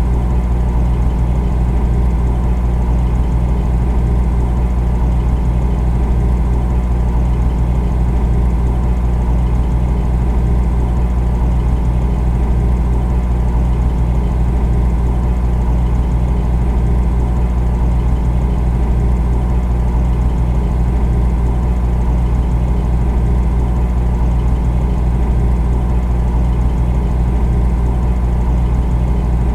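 Refrigerator running with a steady low hum and a faint even hiss above it, unchanging throughout.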